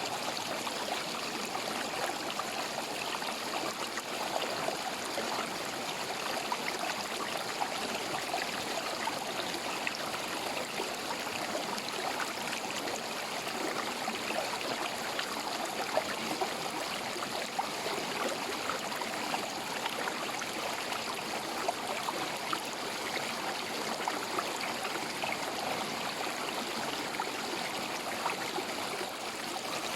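River water running steadily over rocks in a shallow stream, with a continuous rushing and small splashes and gurgles.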